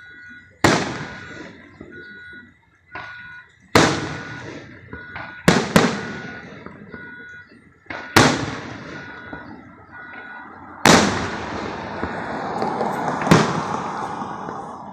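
Fireworks bursting overhead: about eight loud booms, two of them in a quick pair, each trailing off in a long echoing rumble. A faint beeping tone repeats on and off in the background.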